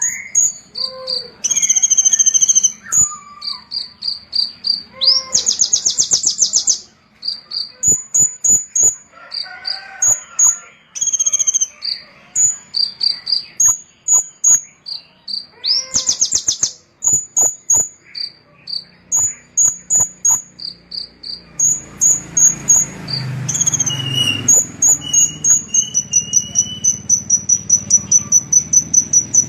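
Small songbird singing high-pitched, rapidly repeated chirps broken by fast buzzy trills. From about two-thirds of the way in, a low rumble runs underneath and the song settles into a long run of even, quick notes.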